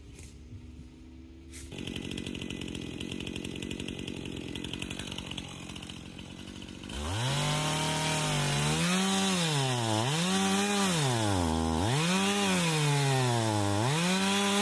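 Two-stroke chainsaw running at a low, rattling idle, then opened up about halfway through, its engine pitch rising and falling again and again as the throttle is worked and it bites into the wood.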